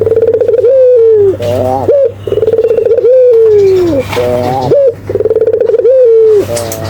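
Puter (Barbary dove) cooing gacor, calling over and over in about three full phrases. Each phrase is a quick pulsed, rattling coo followed by a long falling coo, and the calling stops near the end, with a low steady hum underneath.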